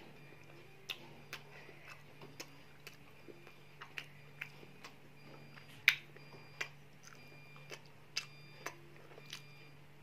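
A child chewing and biting chicken satay off a bamboo skewer: irregular sharp clicking mouth sounds, about one or two a second, the loudest about six seconds in.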